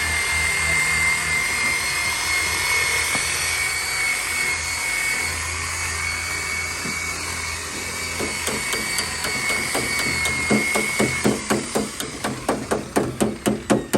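Steady whine of a small power tool, then, from about two thirds of the way in, rapid light hammer taps on car body sheet metal, about four a second, as the dent is worked out.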